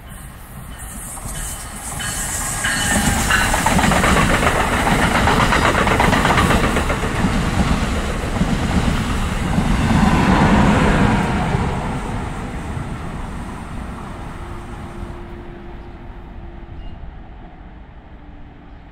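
Commuter train passing close by, its wheels clacking over the rails. The sound builds over the first few seconds, is loud from about three to twelve seconds in, then slowly fades away.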